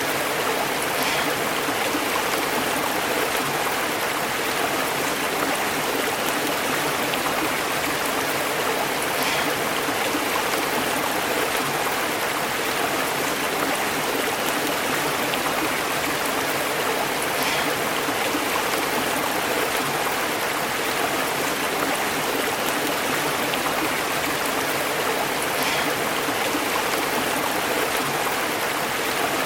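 A stream bubbling and burbling over rocks, a steady, unbroken rush of flowing water.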